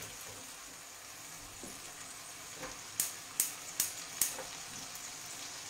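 Crab meat and soffritto frying in a stainless sauté pan, a steady sizzle with a few light knocks of a wooden spoon. About three seconds in, a gas hob igniter clicks four times in quick succession as a burner is lit.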